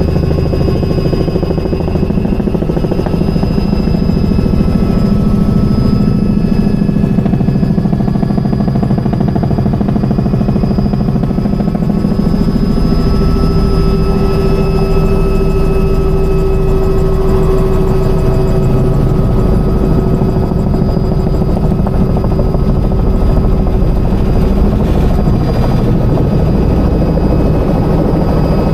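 Helicopter in flight: loud, steady rotor and engine noise with a constant high whine running over it.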